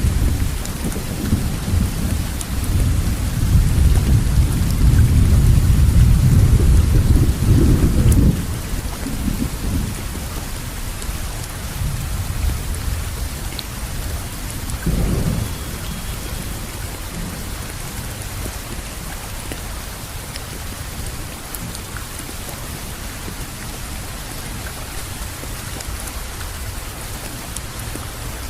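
Steady rain falling, with low rolling thunder through the first eight seconds that cuts off abruptly, and a shorter rumble about halfway through.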